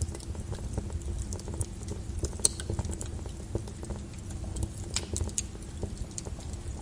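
Lava flow crackling and popping: irregular sharp clicks and ticks over a steady low rumble.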